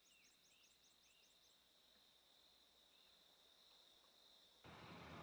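Faint outdoor ambience: a quick run of high bird chirps in the first second and a half over a steady faint insect-like hum. Near the end a louder even rushing noise starts abruptly.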